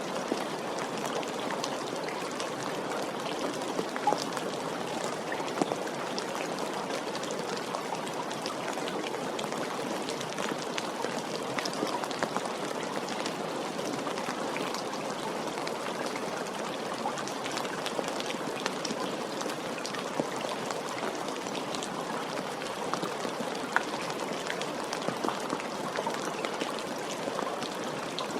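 Steady rain falling, with many separate raindrop ticks over an even wash of rain noise.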